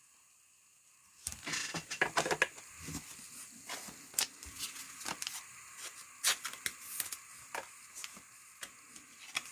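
Trading cards being handled: light cardboard clicks, snaps and slides as cards are flipped and shuffled, coming irregularly a few times a second after about a second of near silence, with a few sharper snaps.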